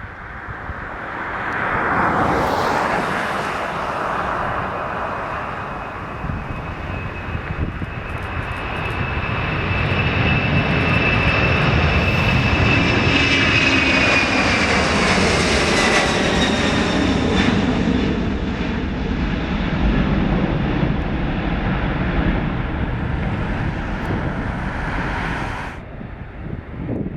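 Boeing 767-300ER's twin jet engines at takeoff power as the airliner takes off and passes: a loud jet roar carrying a high whine that falls in pitch as it goes by. The sound cuts off suddenly near the end.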